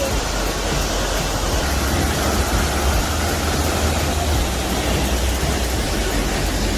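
Large waterfall plunging onto rocks: a steady, loud rushing of falling water.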